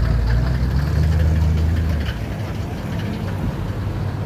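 Classic car engine running with a deep, steady low rumble that eases off about two seconds in.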